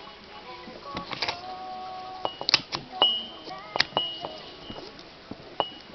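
Metal parts and hand tools knocking and clinking during disassembly of a lathe spindle assembly, with a dozen or so irregular strikes, several of which leave a short ringing tone.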